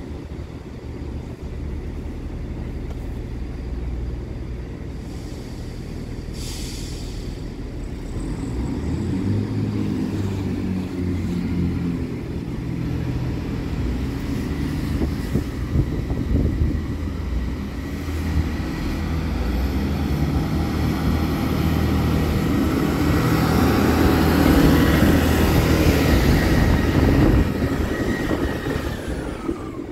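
A four-car Class 158 diesel multiple unit pulls away and accelerates toward the level crossing, its underfloor diesel engines running louder as it approaches. A high whine from the train drops in pitch as it passes close by near the end.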